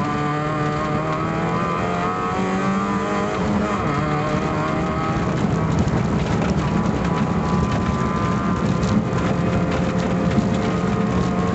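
Fiat Cinquecento rally car's engine heard from inside the cabin, pulling hard at high revs, its pitch rising and dipping with the throttle through the bends.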